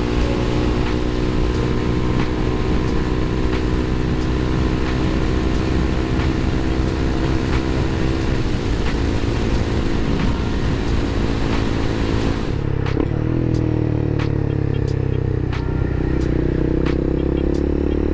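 Motorcycle engine running under way, with wind hiss over the microphone. About two-thirds of the way through the wind hiss drops away suddenly and the engine note dips, then rises steadily near the end as the bike accelerates.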